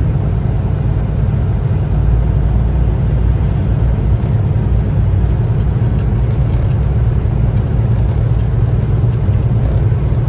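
Steady low drone of a semi-truck's engine and road noise, heard from inside the cab while cruising on the highway.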